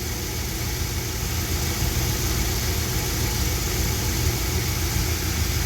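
1973 Dodge D100 pickup engine idling steadily.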